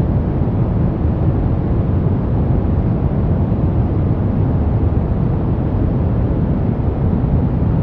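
Steady brown noise: an even, deep rushing hiss with most of its weight in the low end and little treble, unchanging throughout.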